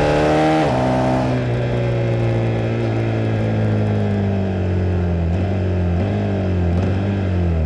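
KTM 390 Duke's single-cylinder engine on a motorcycle ride: it pulls briefly, the throttle is shut under a second in, and the revs then sink slowly as the bike slows on engine braking, with a few small throttle blips near the end.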